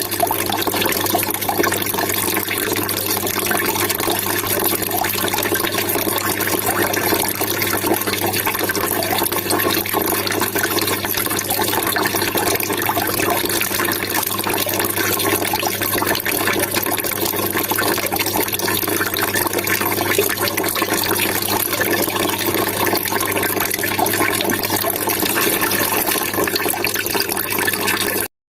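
Water trickling and splashing in a steady, unbroken stream, which cuts off suddenly near the end.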